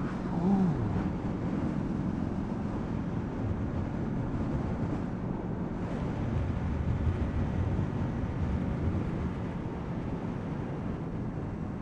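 Wind rushing over the motorcycle camera's microphone, with the steady drone of a 2006 Honda VFR800's V4 engine underneath at an even cruising speed.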